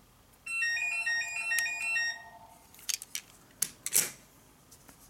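An electronic telephone ringtone: a quick melody of short beeping notes over a warbling lower tone, lasting about two seconds. A few sharp clicks and knocks follow.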